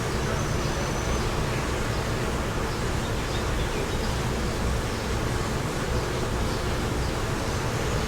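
Wind blowing steadily, with a low, uneven rumble and a constant rushing hiss. A faint, high, thin tone comes briefly about half a second in and again near the end.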